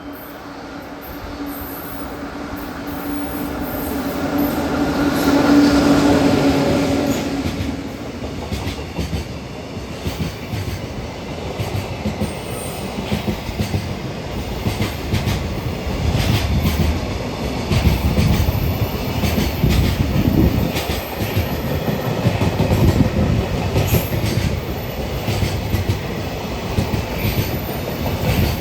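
EF66 electric locomotive hauling a container freight train past at speed. Its motor hum builds and peaks about six seconds in, then fades into a long run of container wagons clattering over rail joints.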